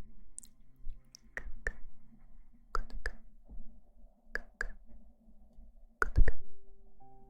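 Sharp clicks in pairs, about a third of a second apart, repeating roughly every second and a half, with a louder cluster of three clicks with a dull thump about six seconds in. Faint steady tones hum underneath.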